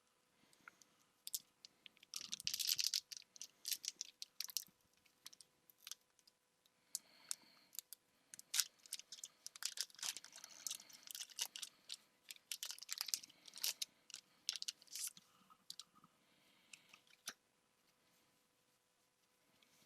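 Crinkling and crackling of a foil Pokémon trading-card booster pack and the cards inside being handled, in irregular clusters of sharp crackles and clicks with short pauses between.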